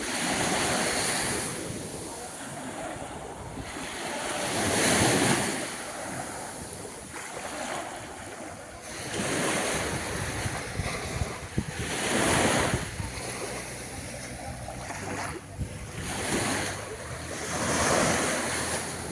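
Small waves breaking and washing up on a sandy beach, the surf swelling and fading every few seconds. Wind buffets the microphone with a low rumble.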